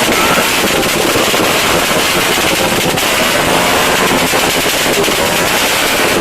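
Firecrackers and fireworks going off in a dense, unbroken crackle of rapid bangs, a steady barrage without pauses.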